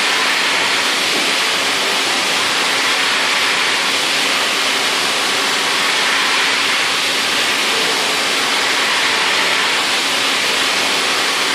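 CNC mill trochoidal milling 6082 aluminium with a 3-flute end mill at 8,000 rpm: a steady, loud rushing noise with a faint hum underneath, unbroken throughout.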